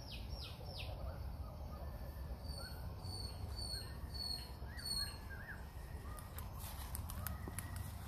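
Wild birds calling in woodland: three quick falling chirps at the start, then a run of short high whistles a few seconds in, over a steady low rumble.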